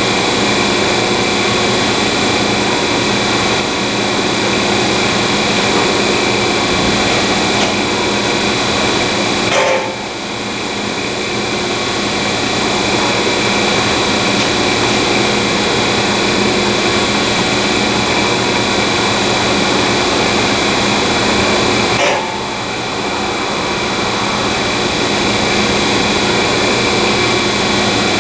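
A power tool running steadily while cutting steel exhaust tubing to length at the marked cut-off point. It eases off briefly twice, about ten seconds in and again about twenty-two seconds in.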